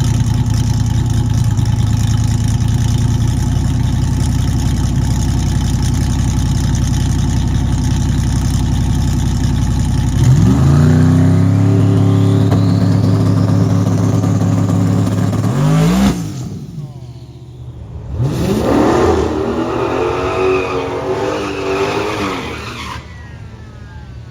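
Car engine running steadily, then revved hard about ten seconds in and held at high revs for several seconds before letting off abruptly. After a short lull it is revved again in uneven rises and falls.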